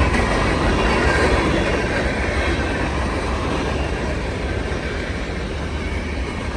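Freight train cars rolling past, with steady wheel-on-rail noise that eases slightly toward the end.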